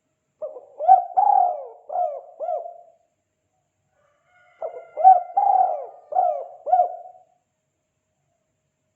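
Spotted dove (tekukur) singing its cooing 'kuk 2' call twice, each phrase a run of about five notes lasting two to three seconds, with a short silence between the phrases.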